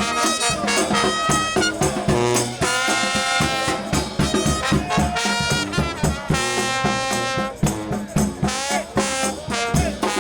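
New Orleans brass band playing live: trumpets and trombones over a steady drum beat, with held notes and bending slides.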